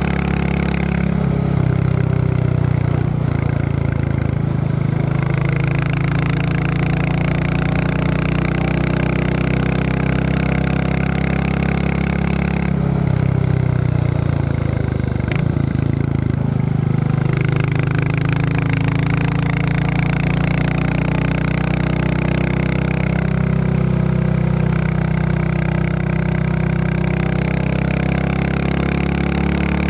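Royal Enfield Classic 350's single-cylinder engine running on the move, with the steady thump of its exhaust. About halfway through, the engine note drops as the throttle eases off, then climbs again.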